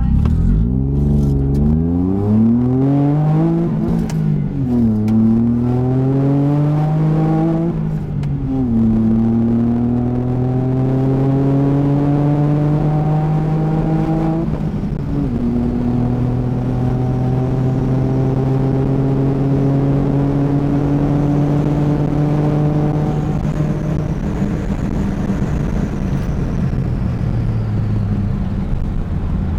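Turbocharged Smart car's small three-cylinder engine accelerating hard under full throttle, its pitch climbing through the gears with a sudden drop at each of three gear changes, the last one followed by a long, slow climb. Near the end the revs level off and fall as the throttle eases, with a faint high whine rising and falling.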